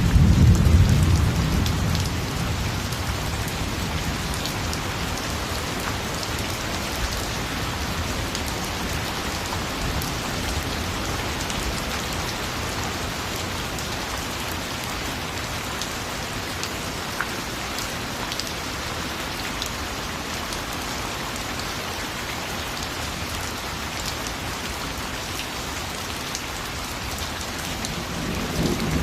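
Steady rain falling. A low rumble of thunder dies away over the first two seconds, and another begins to build near the end.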